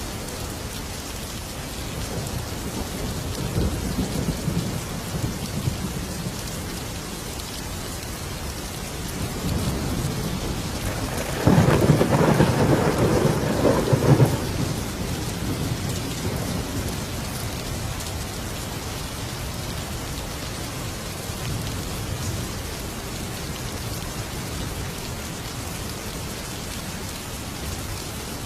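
Thunderstorm: steady heavy rain throughout, with low thunder rumbling a few seconds in and a loud crack of thunder about halfway through that rolls away over a few seconds.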